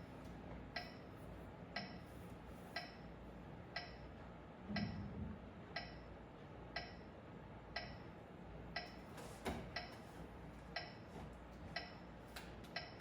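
Metronome ticking steadily at about one beat per second.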